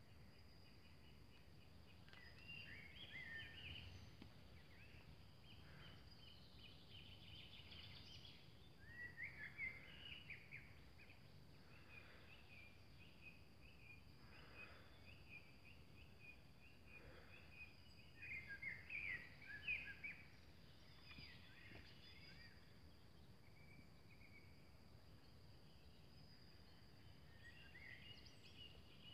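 Faint birdsong: birds singing short phrases on and off, loudest about ten and twenty seconds in, over a steady thin high tone.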